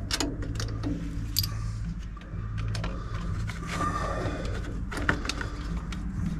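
Hand tools clinking and tapping on metal, a dozen or so short sharp knocks at irregular intervals, as the carburettor is refitted to its adapter plate. A steady low hum runs underneath.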